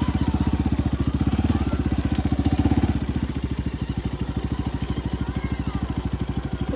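Small gasoline engine idling with a steady, fast, even beat; it drops a little in level about three seconds in.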